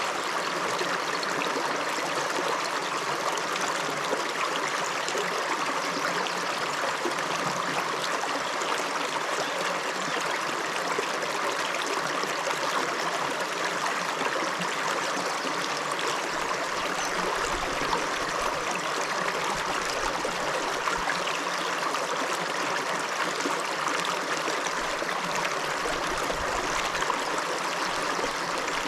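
The River Giedd running: a steady, unbroken rush of flowing water. A faint low rumble comes and goes in the second half.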